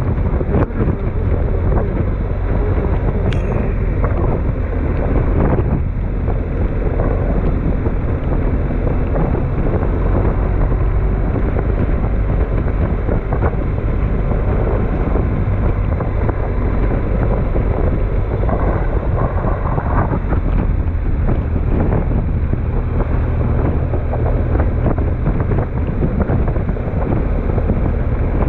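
Storm wind buffeting the microphone: a loud, steady rumble of wind noise.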